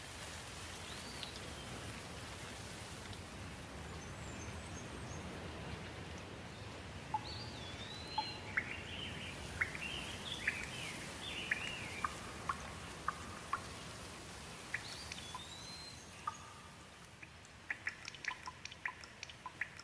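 Steady rush of running water with birds singing over it: a rising-and-falling whistle that comes back three times, and a flurry of short chirps in the middle. Near the end, a quick run of sharp drips.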